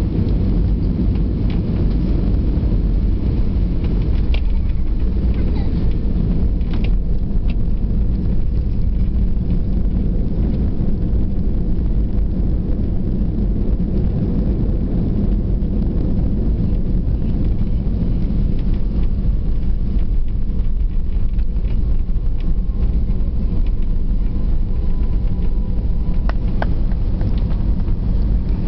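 Steady low rumble inside the cabin of an Airbus A320-200, with a few faint clicks.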